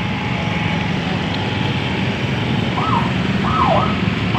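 Steady noise of heavy road traffic, engines and tyres, close by. About three seconds in, a few short pitched glides rise and fall over it.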